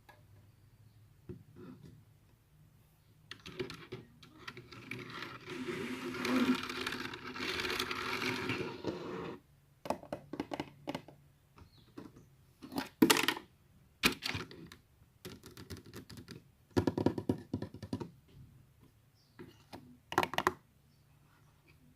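Close-miked handling sounds: several seconds of dense, continuous scraping noise, then clusters of sharp taps and clicks.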